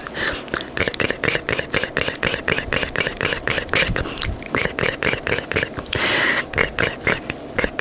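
Quick run of close-miked mouth and tongue clicks, several a second, with a short breathy hiss about six seconds in.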